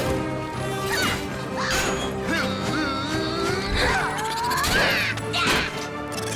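Cartoon action-scene soundtrack: a driving music score under several crashing impact effects, with sliding, warbling pitch sweeps through the middle.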